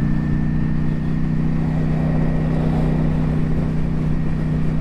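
Ducati Streetfighter V4's engine running at a steady, even pitch while the motorcycle cruises, with wind noise over it.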